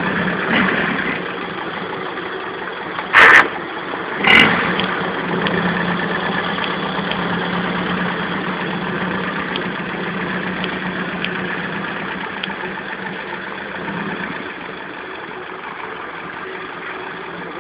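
Ford Corcel four-cylinder car engine in a homemade motorcycle running steadily at low revs. Two short, loud bangs come a little over a second apart, about three and four seconds in.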